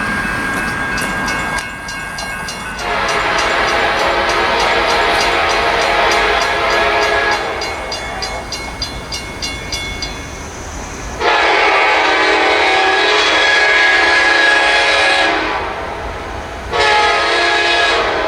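Locomotive air horn sounding long blasts, a chord of several tones: one from about three seconds in, a second from about eleven seconds, and a third starting near the end, over the steady running noise of the train.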